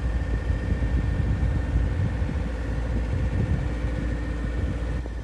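Boat engine running steadily: a constant low rumble with a steady hum over it.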